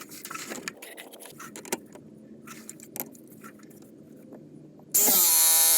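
Light metallic clicking and clinking, like tools and fittings handled during plumbing work. Near the end, a sudden loud hissing squeal drops slightly in pitch, then holds one steady pitch for about a second.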